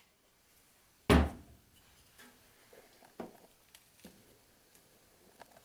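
Wooden workpieces handled on a workbench: one sharp wooden knock about a second in, then a few faint taps.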